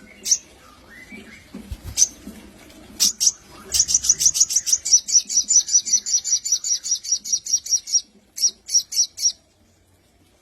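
Sogon bird calling: a few separate sharp, high chips, then a fast even run of high chip notes, about six a second, lasting around four seconds, with a few more chips after a short break near the end.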